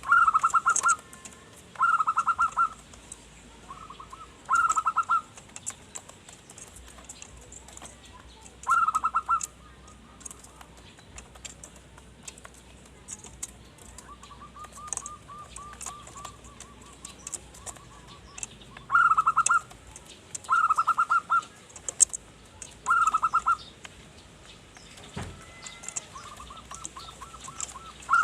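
Zebra dove (perkutut) cooing: short loud bursts of rapid staccato coo notes every couple of seconds, with softer rolling trilled coos between them.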